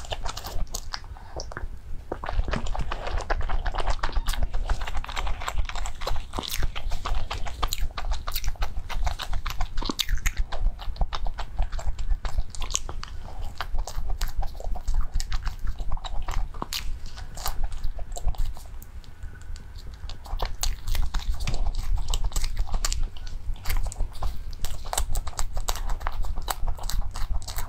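Close-miked chewing and biting of a soft bread roll filled with pork floss and salad dressing: wet mouth sounds and dense small clicks with a light crunch, over a steady low hum.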